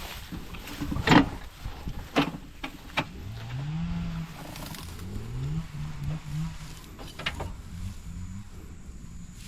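An engine running, its pitch rising and falling repeatedly from about three seconds in. A few sharp knocks come in the first three seconds.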